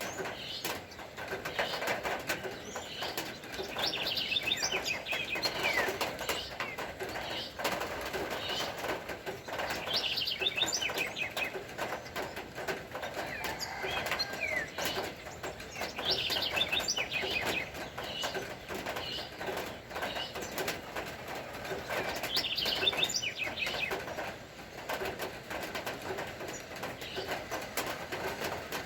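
Birds singing: a short, bright song phrase of quick falling notes repeats every five or six seconds, with lower calls, over a steady hiss.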